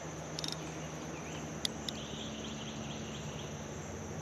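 Steady high-pitched insect drone, with a quick run of light ticks about half a second in and two sharp clicks a little later.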